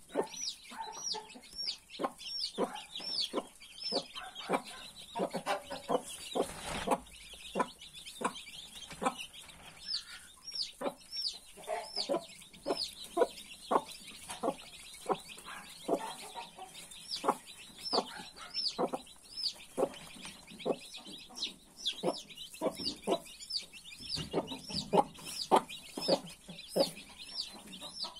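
Newly hatched chicks peeping continuously, several high peeps a second, with a hen's short low clucks repeating among them.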